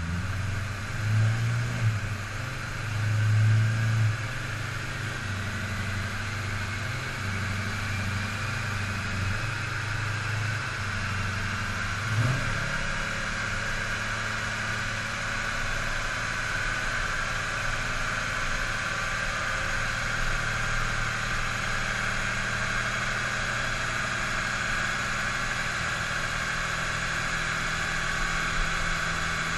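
Magnuson-supercharged 6.2-litre LS3 V8 of a 2010 Corvette Grand Sport with long-tube headers, revving briefly a couple of times in the first few seconds, then idling steadily. A faint whine rises slowly in pitch through the middle.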